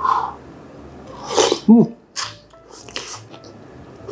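A person eating spicy bean sprout and fish cake japchae close to the microphone. About a second in comes a sharp breathy burst followed by a short falling vocal sound, then a few brief crunchy, slurpy mouth noises.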